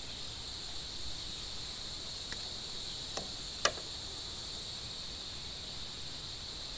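Steady high-pitched chorus of insects droning without a break. A sharp click about three and a half seconds in, with a fainter one just before.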